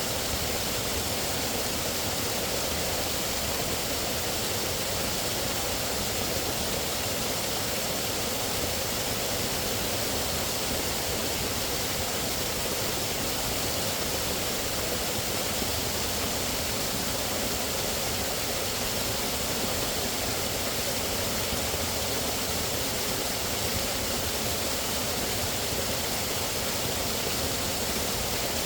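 Steady, unbroken rushing of water, an even hiss with no changes.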